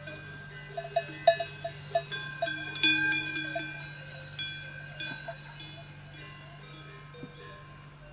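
Metal bells clanking and ringing at irregular intervals. The strikes come thickest in the first few seconds and thin out later, over a steady low hum.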